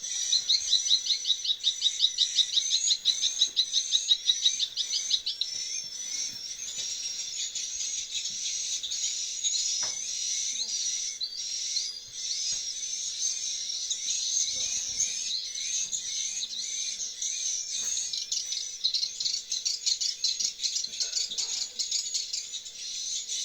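Dense, continuous high twittering and chirping of swiftlets inside a swiftlet house. For the first five seconds or so a fast, loud run of rapidly repeated chirps stands out above the rest.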